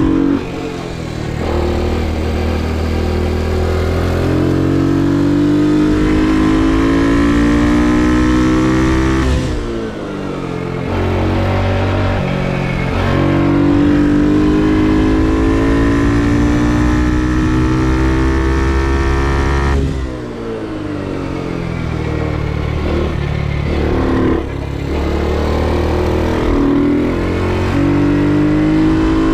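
Ohvale GP2 minibike's small four-stroke single-cylinder engine heard onboard, revving up under hard acceleration in long rising climbs. The revs and loudness drop sharply about a second in, around ten seconds, around twenty seconds and again a few seconds later as the throttle is shut for corners, then climb again.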